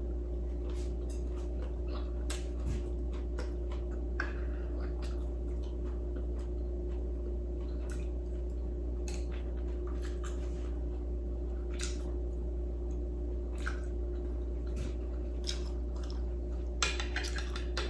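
Someone eating: scattered light clicks of cutlery on a plate and small wet chewing sounds, with a quick run of clicks near the end. A steady low hum runs underneath.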